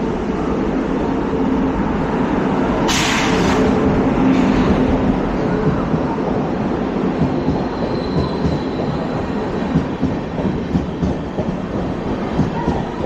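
LHB passenger coach running on the track: a steady rumble of wheels on rail, with a brief loud rush about three seconds in. In the last few seconds the wheels clatter irregularly over the rail joints.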